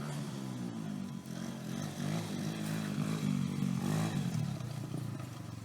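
110cc dirt bike engine running, its pitch rising and falling as the throttle is worked.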